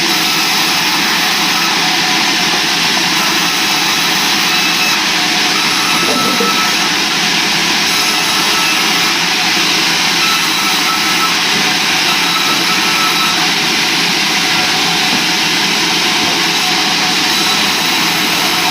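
Sawmill saw and its drive machinery running with a loud, steady, even noise and a faint high whine.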